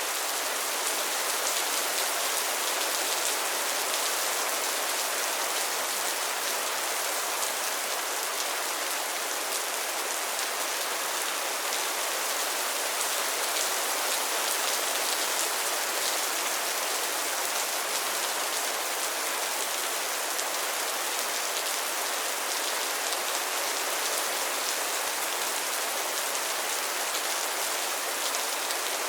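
Steady rain falling on a pond and its lily pads, a dense even patter of many small drops hitting water and leaves.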